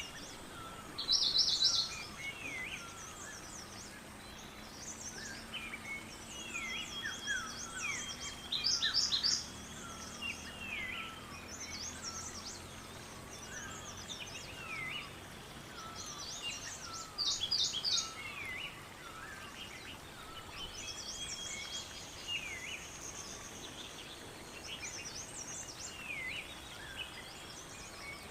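Several songbirds calling and singing together, with many short chirps and repeated falling whistled notes. Louder bursts of rapid high chirping come about every eight seconds: near the start, around nine seconds in and around seventeen seconds in.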